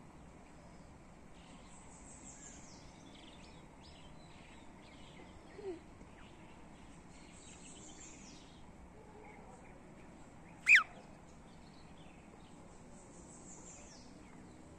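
Outdoor background hiss with faint, high, falling bird calls every few seconds. About ten and a half seconds in comes a single short, sharp chirp, by far the loudest sound.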